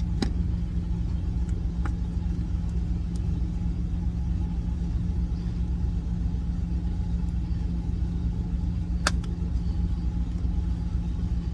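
Truck engine idling with a steady low rumble, with a few light clicks over it, the sharpest about nine seconds in.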